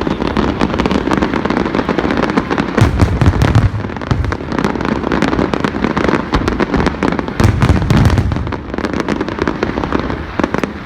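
Fireworks display going off: a dense run of crackling and popping shells, with deeper booms about three seconds in and again about eight seconds in.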